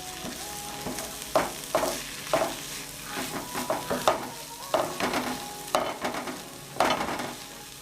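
Minced chicken frying with onions and spices in a pan: a steady sizzle with irregular scraping strokes as the mixture is stirred against the pan.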